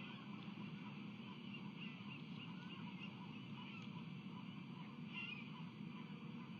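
Faint, short high bird calls, repeated irregularly over a steady low background noise.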